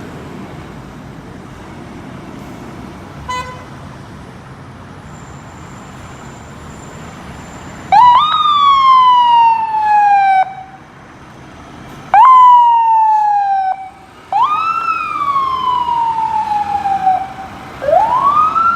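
Fire engine siren sounding in repeated cycles, each rising sharply and then falling slowly over about two seconds, three times, before winding up again near the end. Before the siren starts there is a steady low rumble of engine and traffic, with a short toot about three seconds in.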